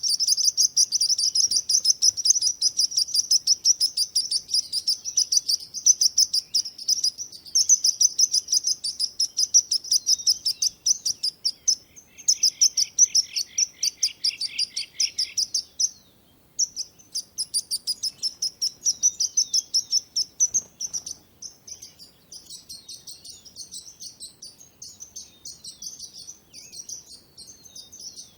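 Songbirds chirping in rapid, high-pitched runs of many chirps a second. Partway through, a second, lower trill joins for a few seconds. The chirping grows quieter near the end.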